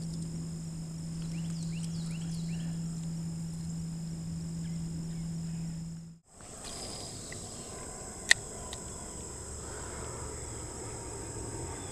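Steady high-pitched insect chorus, with a few short chirps in the first three seconds. A steady low hum runs under it until everything drops out briefly about six seconds in. The chorus then resumes, with a single sharp click about two seconds later.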